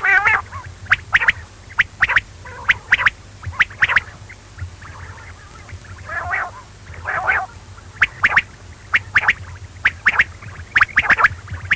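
Quail calling: short, sharp, high calls repeated in quick groups, with a couple of longer warbling phrases about six and seven seconds in, over a steady low hum.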